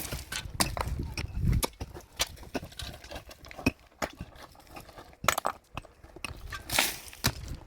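Irregular knocks and clatters of hard objects striking, uneven in spacing, with a brief scraping rush near the end.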